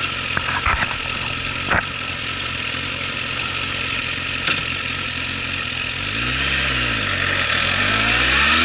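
Suzuki GSF1200's inline-four engine idling, with a few short clicks, then revving once and rising steadily in pitch and loudness as the motorcycle pulls away.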